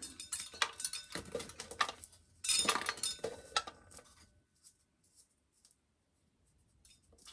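Dry corn kernels being rubbed off the cob by hand, clicking and rattling as they drop into a tub, with a denser rattle about two and a half seconds in, then stopping after about four seconds.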